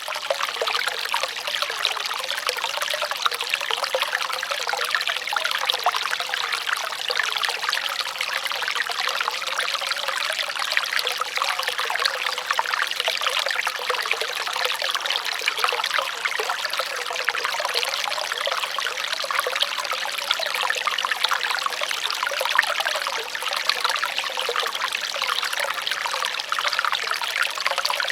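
Flowing water trickling and splashing steadily, a dense, bright rush with almost no low rumble.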